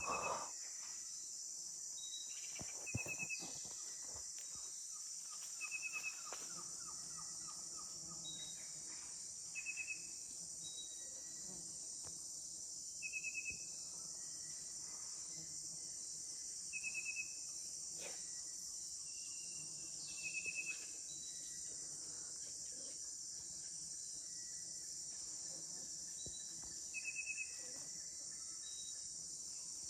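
Rainforest insect chorus, a steady high-pitched buzz. A short trilled call, louder than the chorus, repeats about every three to four seconds.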